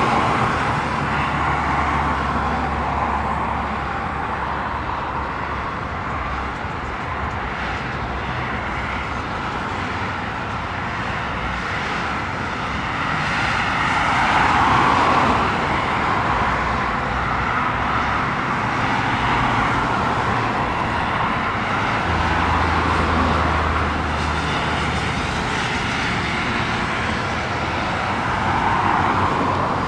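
Jet airliner engines running with a steady rushing noise that swells and eases a few times, with road traffic mixed in.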